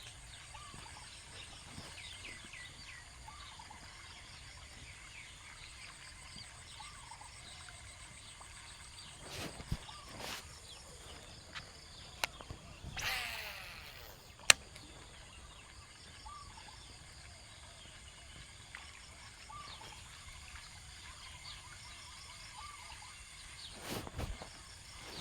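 Rural outdoor ambience: birds calling in short repeated notes over a steady high insect hum, with a few sharp knocks and a brief rushing sound about halfway through.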